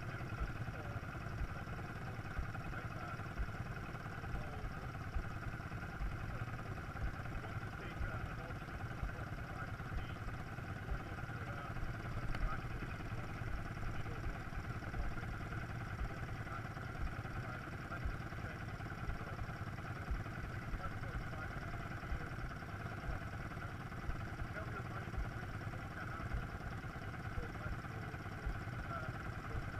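Quad bike engine running steadily at a low, even speed.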